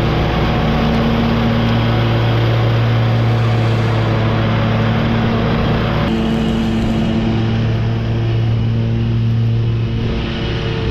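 Lawn mower engine running steadily under a broad rushing noise, the mower mulching leaves; the rushing thins out suddenly about six seconds in while the engine note holds.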